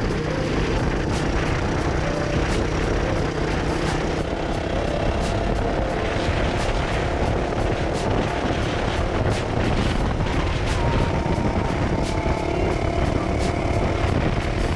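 Honda CRF450RL single-cylinder four-stroke motorcycle engine running steadily while riding at a constant pace.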